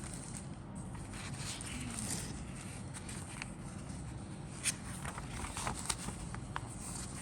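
Plastic model kit contents being handled: rustling with scattered light clicks and taps, a few sharper clicks in the second half, over a steady low hum.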